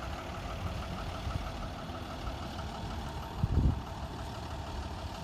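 A vehicle engine idling steadily with an even rhythm, and a short thump about three and a half seconds in.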